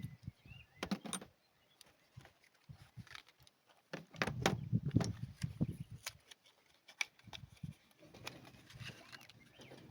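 Irregular clicks and knocks of hand tools and parts being handled while working on the engine. A denser run of low knocks comes about four to six seconds in.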